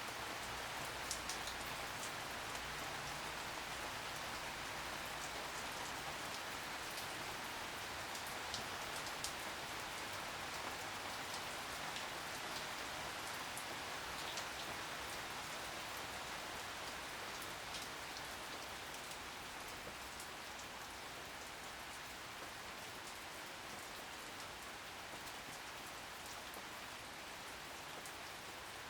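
Steady rain falling, with scattered sharper drop ticks over an even hiss.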